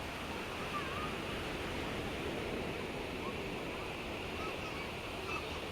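A steady wash of water ambience, like surf or lapping water, with a few faint short chirps over it.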